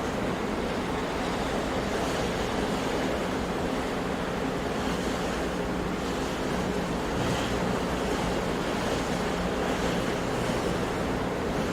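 Sea waves washing on a shore, a steady rush of surf that swells and eases slightly.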